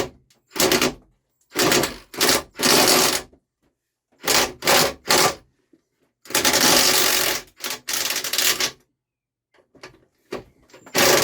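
Power tool with a 13mm socket driving the mower's engine-mounting bolts in repeated short bursts, the longest about a second, while the bolt only spins round without coming free.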